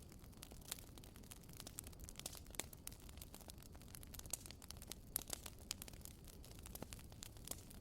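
Wood fire crackling quietly: irregular sharp pops and snaps over a low steady rumble.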